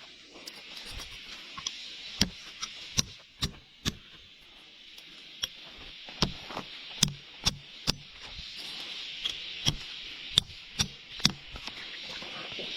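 A dozen or so sharp knocks or taps at irregular intervals over a steady high hiss.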